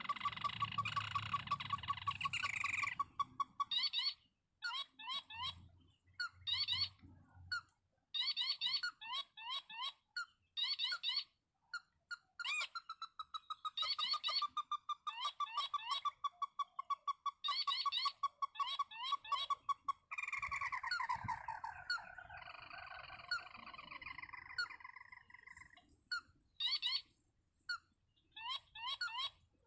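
Crake calls: bouts of rapid, sharp repeated notes and trills with short pauses between them.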